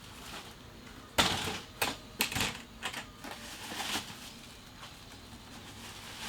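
A run of short clattering knocks and clicks, like hard objects being handled and set down, starting about a second in and going on for about three seconds, the first the loudest; another knock comes near the end.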